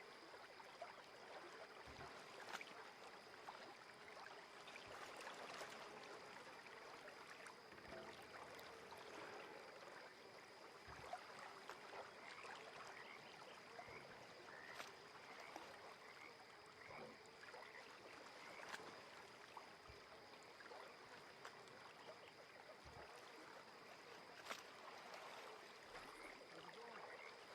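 Faint lake water lapping and trickling at the shore, with many small ticks and gurgles over a faint steady high tone.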